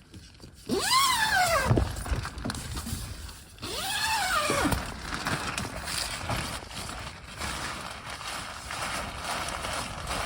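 An animal calls twice, about three seconds apart. Each call lasts about a second and rises then falls in pitch. A steady rushing noise runs underneath.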